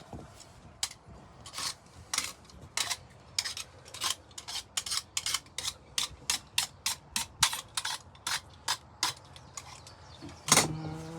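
Repeated short scraping strokes of a hand tool on wood, slow at first and then about two to three a second, with a louder stroke near the end.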